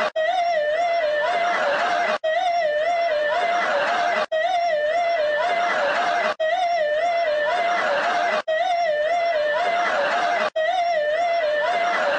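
A loud warbling alarm tone, wavering about six times a second around one pitch over a rough hiss. It plays as a loop of about two seconds, broken by a brief dropout at each repeat.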